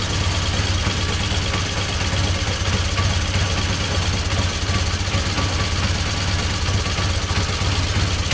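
1976 Triumph T140 Bonneville's parallel-twin engine idling steadily. The bike is being tuned for a carburetion problem, a flat spot when the throttle is opened.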